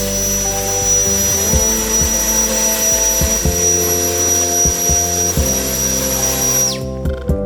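Brushless electric blower running at full speed: a steady high whine over rushing air, which winds down and stops near the end. Background music plays underneath.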